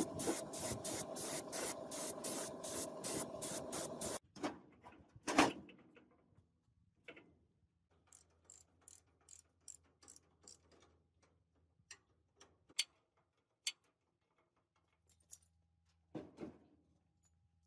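A loud pulsing hiss that cuts off about four seconds in, followed by a few knocks and then scattered light clicks and taps.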